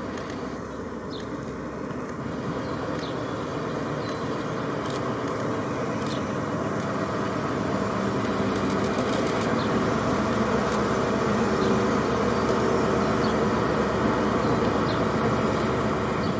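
Diesel locomotive engine running steadily and growing gradually louder, its pitch holding level.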